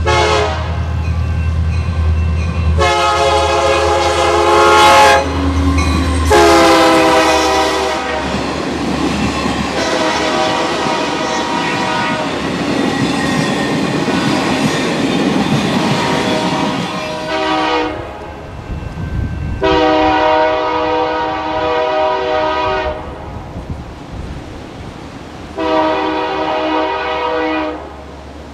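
A Union Pacific diesel locomotive's air horn sounding a series of long blasts as the train passes, with the low rumble of the locomotive and rolling cars under the first few seconds.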